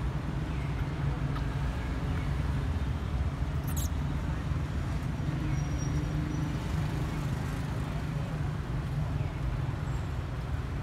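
Steady low rumble of outdoor background noise at an even level, with a faint brief high squeak about four seconds in.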